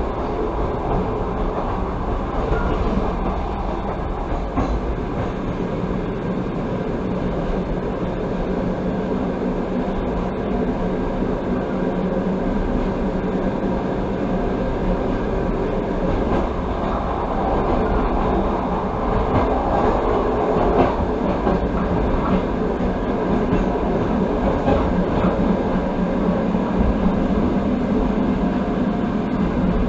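Passenger train carriage running at speed, heard from inside: a steady rumble of wheels on the rails, growing a little louder about halfway through.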